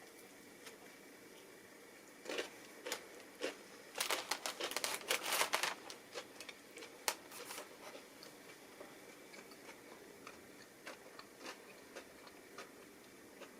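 Someone biting into a crispy fried chicken tender sandwich: a few sharp crunches, then a dense burst of crackly crunching about four seconds in, followed by faint, scattered chewing clicks.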